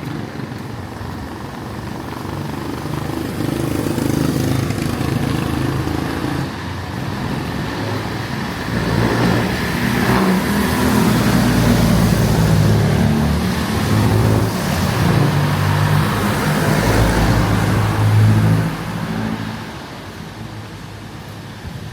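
Motor vehicle engines running on a city street, one or more passing close by. The engine hum swells loudest through the middle and fades away near the end.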